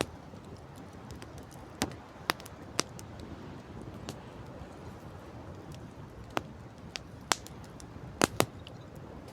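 Campfire crackling: irregular sharp pops every second or so, the loudest a close pair near the end, over a steady background rush.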